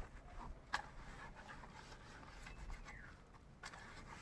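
Faint rubbing and scraping, with a few light clicks and taps.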